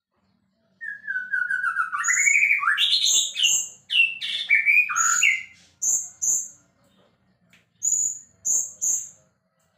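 White-rumped shama singing: after a short pause, a quick run of falling notes leads into a loud, varied phrase of whistles, followed by a few short high notes in twos and threes.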